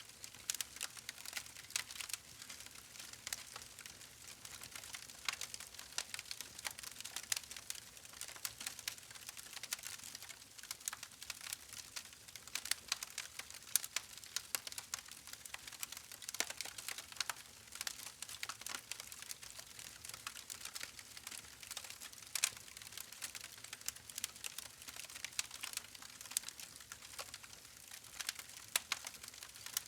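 Campfire crackling: dense, irregular snaps and pops of burning wood over a soft hiss.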